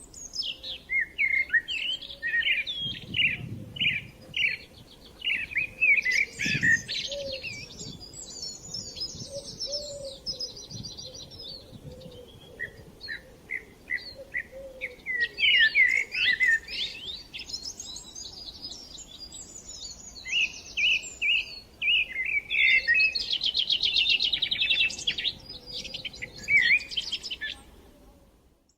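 Birds chirping and twittering, with overlapping short calls and quick rapid trills, fading out near the end.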